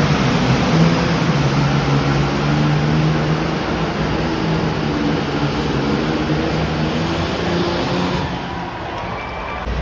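Super Farm class pulling tractor's turbocharged diesel engine running hard under load during a pull, a steady loud drone that eases off about eight seconds in.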